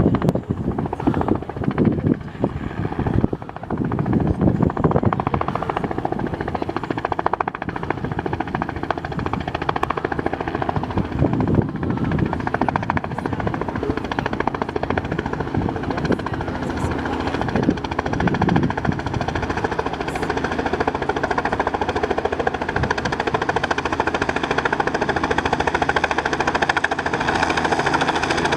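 Helicopter running steadily, its rotor chopping in a fast, even beat over the engine's steady tone.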